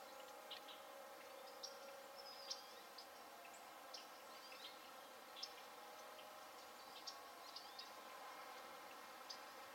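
Faint ambient outdoor sound: small birds giving short, high chirps and brief sliding notes at irregular intervals, over a steady faint background hum.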